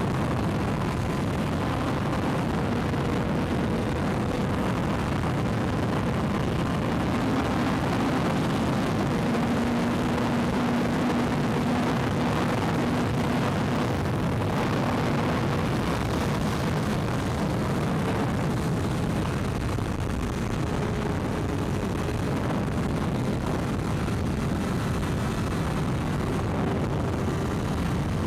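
600cc sports motorcycle ridden flat out, recorded onboard: the engine is held at high revs under a heavy rush of wind noise. The sound stays steady and loud.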